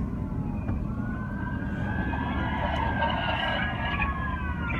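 Several police car sirens wailing at once, their pitches rising and falling across each other, over a steady low rumble of vehicle and road noise.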